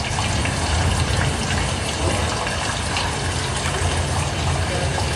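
Steady rushing rain or water sound effect played over a PA system, with a low hum underneath.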